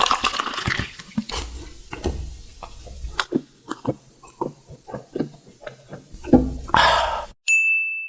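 Close-miked eating sounds: a hiss fading out in the first second, then scattered wet mouth clicks and chewing smacks, and a louder burst of noise about six seconds in. It ends with a short, steady high-pitched beep just before the end.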